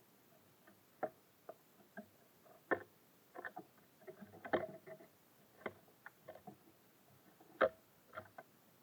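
Small birds at a feeder making irregular taps and knocks, a few of them louder, as they peck and move about on it.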